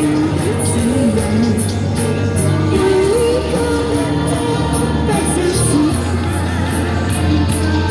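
Singing of a Chinese pop song over a backing track, with a steady beat and bass.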